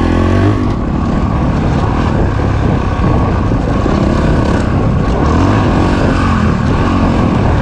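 Dirt bike engine revving up and easing off repeatedly as it is ridden, with its pitch climbing and dropping several times.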